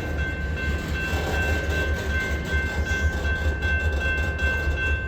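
Freight train's center beam cars rolling slowly past, with a steady rumble, faint clicks and a steady high-pitched squeal from the moving cars.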